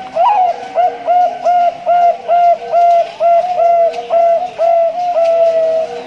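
Male Bangkok-strain zebra dove (perkutut) singing: a rising opening note, then about a dozen short, evenly spaced coos at a little over two a second, closing on one longer held note.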